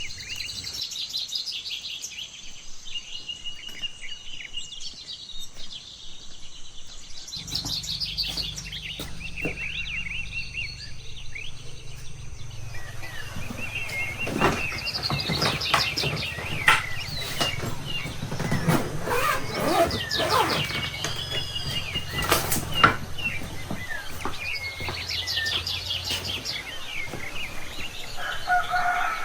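Small birds chirping and twittering, with a low steady hum coming in about seven seconds in and stopping near the end, and a run of sharp knocks and clicks in the middle.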